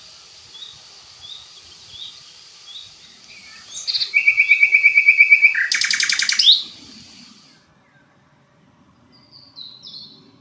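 A songbird singing one loud phrase of about three seconds: rapid repeated notes, a buzzy trill, then a fast rattling series. Beneath it faint high chirps repeat about twice a second, and a short faint phrase comes near the end.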